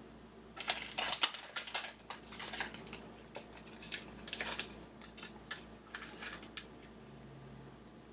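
Trading cards being handled, shuffled and sleeved: a quick run of sharp clicks and rustles of card stock and plastic that thins out about six and a half seconds in.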